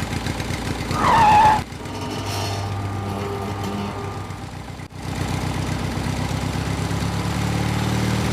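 A small engine runs with an even chugging beat, the sound changing abruptly twice as if cut. A brief, louder wavering tone comes in about a second in.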